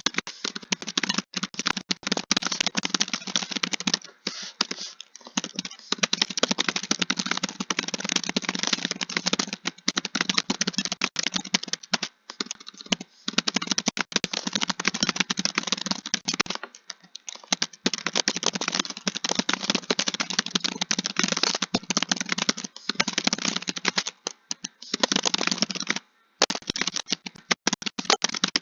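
Fast, continuous typing on a computer keyboard, a dense run of key clicks broken by a few brief pauses.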